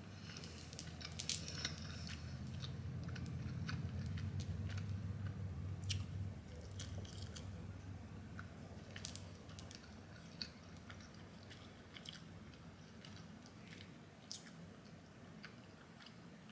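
Close-up mouth sounds of someone chewing food, with scattered small wet clicks and smacks. A low hum swells and fades under the first six seconds.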